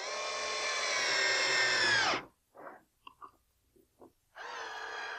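Power drill driving screws: a steady motor whine that drops in pitch and stops about two seconds in. A few light knocks and clicks follow, then the drill starts again about four seconds in.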